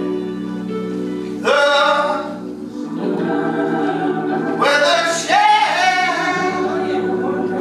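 Gospel singing in church: loud sung phrases come in about a second and a half in and again near five seconds, over held keyboard chords.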